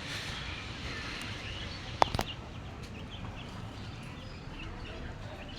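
Outdoor ambience of faint bird chirps over a steady low rumble, with a single sharp click about two seconds in.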